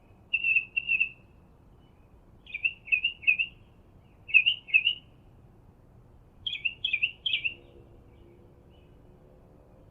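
A songbird calling in four short phrases about two seconds apart, each made of two or three clear, quick chirped notes.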